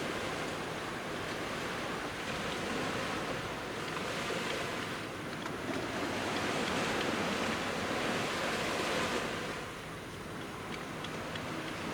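Sea waves breaking and washing on a beach, a steady surf noise that swells and ebbs, easing briefly near the end, with some wind on the microphone.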